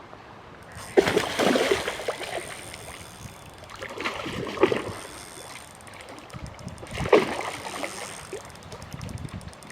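Water splashing in three bursts, about a second, four seconds and seven seconds in, as a hooked fish thrashes at the surface near the bank.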